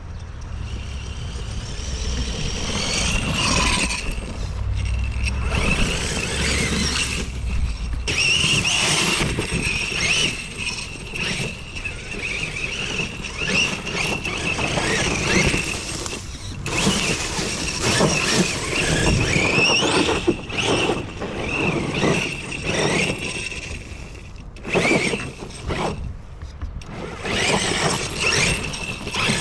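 A homemade RC monster truck's large brushless motor, run on 12S through a Hobbywing Max4 system, whining under throttle in repeated surges, its pitch rising and falling with short let-offs. A low rumble sits under it for the first several seconds.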